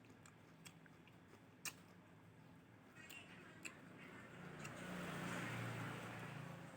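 Close-miked eating sounds: scattered sharp mouth clicks and smacks, the loudest about two seconds in, then a louder stretch of noisy chewing for about two seconds near the end.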